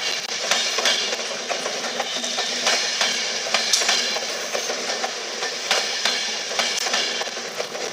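Virgin Trains Class 390 Pendolino electric train rolling past along the platform. Its wheels make an irregular series of clicks and knocks over the rail joints, over a steady rumble of running noise.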